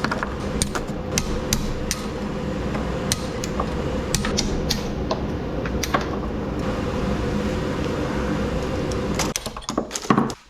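Irregular sharp hammer strikes on metal, over a steady mechanical hum that cuts off near the end, followed by a few louder knocks.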